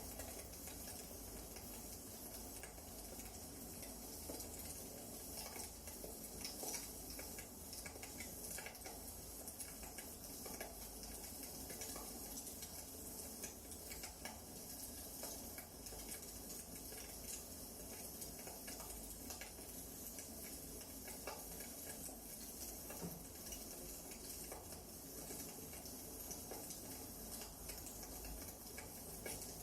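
Wood fire crackling in a fireplace: a steady low hiss with many small, irregular pops and snaps from the burning logs.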